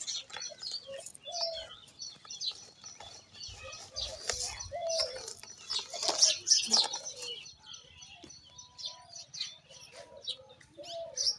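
Birds chirping in a dense, continuous chorus of short high notes, with short lower call notes scattered among them.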